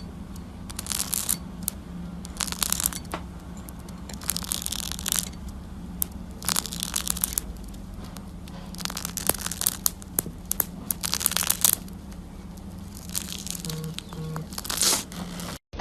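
A series of short scratchy rustling noises, like tearing or crinkling, about one every one to two seconds, over a steady low hum.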